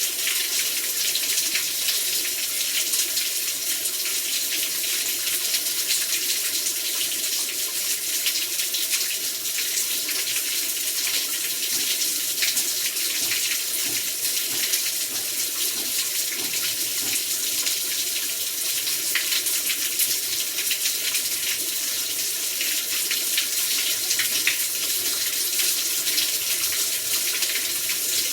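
Heavy rain falling steadily, a dense even hiss with many fine drop ticks through it.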